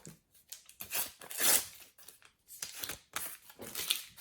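Paper stickers and foil sticker packets being handled, crinkling and rustling in a series of short bursts, loudest about a second and a half in.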